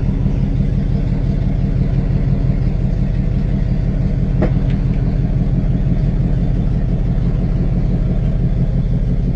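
Tow truck's engine idling with a steady, deep rumble through a muffler in need of repair.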